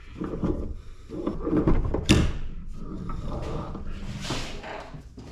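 Clunks and clattering of metal scrap and tools being handled, with one sharp loud knock about two seconds in.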